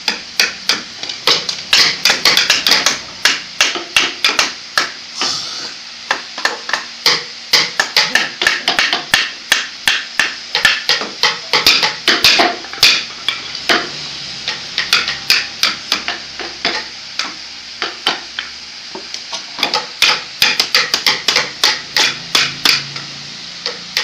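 Hammer striking repeatedly, sharp blows about three to four a second in runs broken by short pauses.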